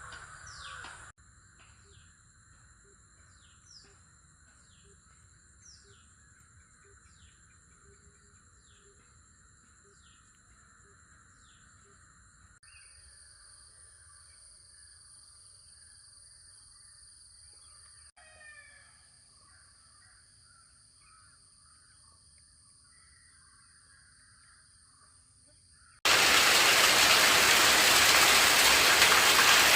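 Birds calling outdoors, a short repeated downward-sweeping call about once a second over a steady high-pitched ringing background, with other scattered calls later. About 26 seconds in, heavy rain starts abruptly and much louder.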